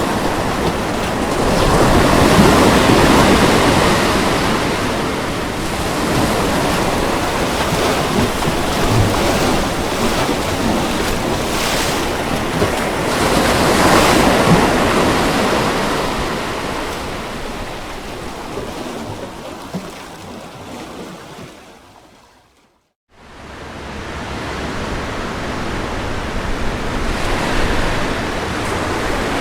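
Ocean waves breaking and washing onto a shore, rising and falling slowly with two big swells. About 22 seconds in the sound fades away to a moment of silence, then comes back.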